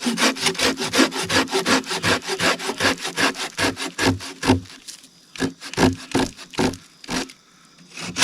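Hand saw cutting through a dead fallen pine, in fast, even back-and-forth strokes of about four a second. The strokes thin out after about five seconds and stop briefly near the end.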